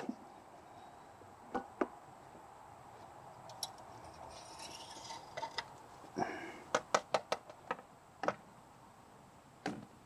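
Light metallic clicks and clinks from tools and parts being handled under the hood. There are scattered single clicks, a quick run of about five a little past halfway, and a faint rustle between them.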